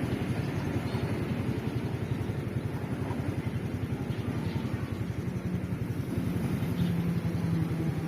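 Road traffic engines, motorcycles and cars, running at a railway level crossing. A steadier engine hum joins about five seconds in.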